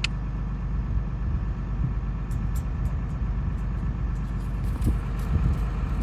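A steady low engine rumble, as of a vehicle idling, with a few short sharp clicks from about two seconds in.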